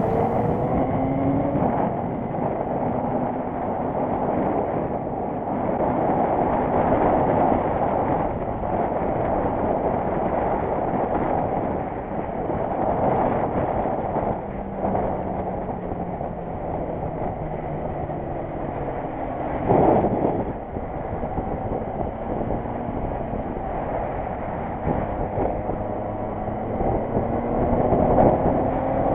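Vehicle engine running on the move, its pitch slowly rising and falling under a heavy, steady rush of road and air noise, with a brief louder swell about twenty seconds in.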